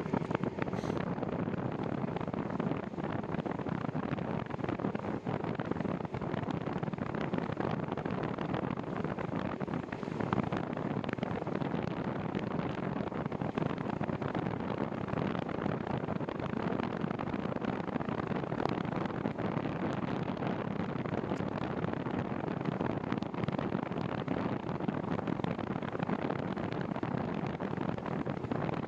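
Steady wind noise buffeting the microphone on a moving bicycle, a constant rushing with no breaks.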